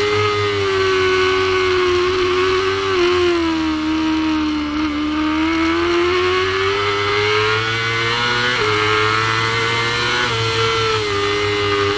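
Supersport race motorcycle engine at racing speed, heard onboard with wind noise. The engine note sinks as the bike slows for a bend about three to five seconds in, then climbs as it accelerates out. The pitch drops suddenly at two upshifts near the end.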